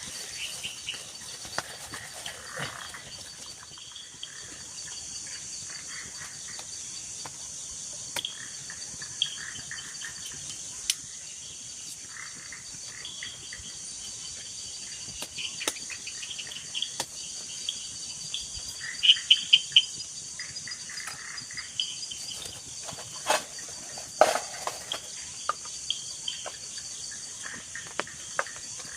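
Steady high-pitched chorus of night insects, crickets, with scattered sharp clicks and knocks over it, including a quick run of four loud clicks about two-thirds of the way through.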